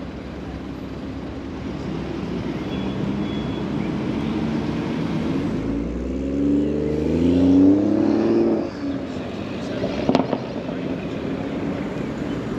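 A road vehicle's engine accelerating past, its pitch rising from about six seconds in and cutting off suddenly near nine seconds, over a steady hum of traffic. A short knock about ten seconds in.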